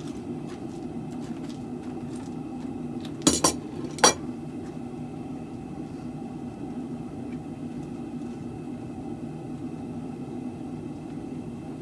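Three ringing metal-on-metal strikes, like a hammer on steel at the anvil: two in quick succession about three seconds in, then a third about half a second later, over a steady low hum.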